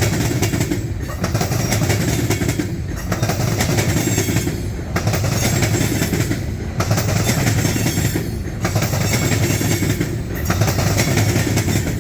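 Freight train cars rolling past at close range: a steady rumble and wheel clatter on the rails, with a regular rise and fall about every two seconds as the cars go by.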